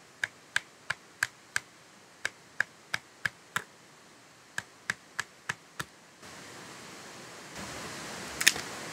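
A knife being batoned through firewood: a run of sharp knocks, about three a second, with a short pause in the middle. After about six seconds they give way to a steady rushing noise, with one more knock near the end.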